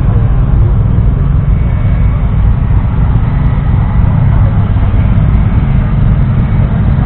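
1952 Ford 8N tractor's 2.0-litre four-cylinder petrol engine running steadily at a constant speed.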